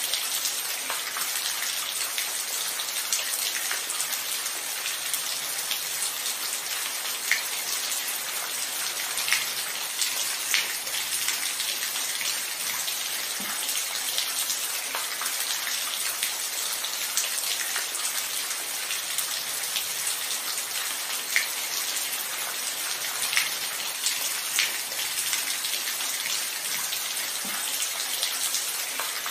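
Steady rain falling, an even hiss with scattered louder single drop hits every few seconds.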